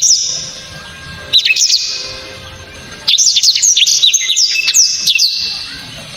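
Blackthroat (black-throated canary) singing. A sharp note at the start and a short phrase about a second and a half in lead to a loud, rapid run of quick high whistled sweeps lasting about two seconds. This is the hard, sharp 'shot' the bird is kept for.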